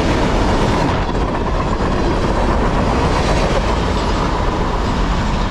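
Freight cars of a Norfolk Southern trash train, carrying waste containers, rolling past at speed: a steady, loud rumble of steel wheels clattering over the rails.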